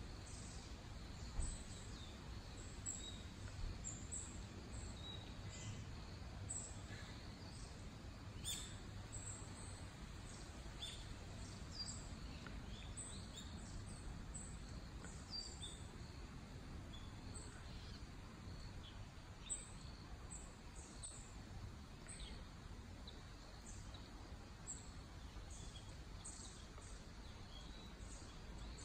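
Small birds chirping now and then, many short high chirps at irregular intervals over a faint low outdoor rumble.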